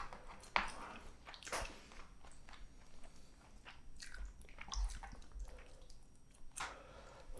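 Close-miked chewing of spicy cheese jjimdak (Korean braised chicken): wet, squishy mouth sounds with irregular sharp smacks and bites.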